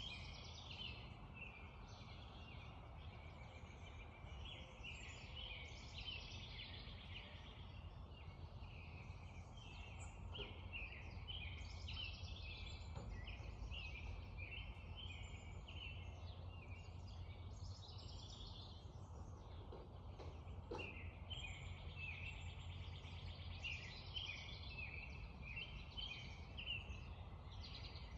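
Spring dawn chorus of several songbirds, with quick overlapping chirps and trills throughout, over a low steady rush of creek water.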